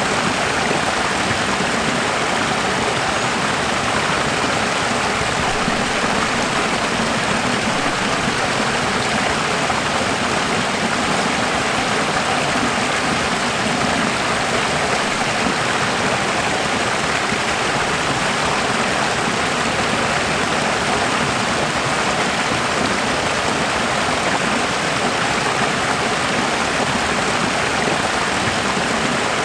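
Running water flowing steadily: an even, unbroken rush that does not change in level.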